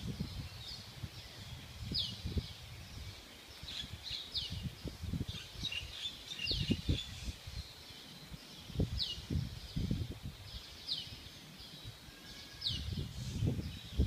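Birds chirping: short high notes that drop in pitch, repeated every second or two, over irregular low rumbling bursts.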